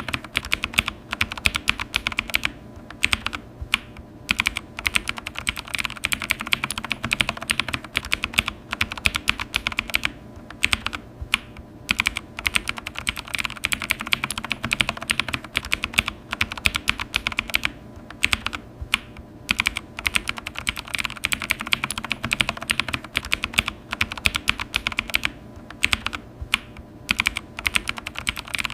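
Typing on a computer keyboard: a fast, irregular stream of key clicks that breaks off briefly a few times.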